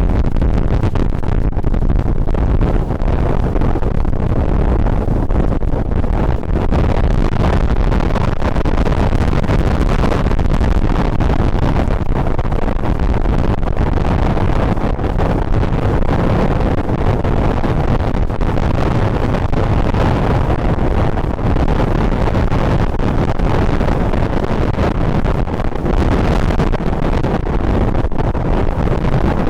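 Strong wind buffeting a microphone fitted with a furry windshield: a loud, steady low rumble.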